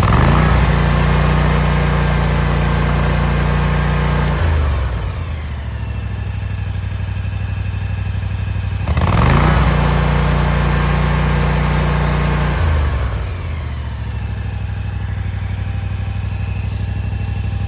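Kawasaki FR-series V-twin mower engine running, revved up twice from idle: each time the pitch rises quickly, holds at high speed for about four seconds, then drops back to a lower idle. It runs steadily with its new canister air filter, which the owner judges to be perfect.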